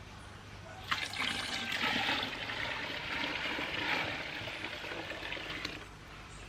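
Water pouring steadily into a washing basin. It starts about a second in and eases off near the end.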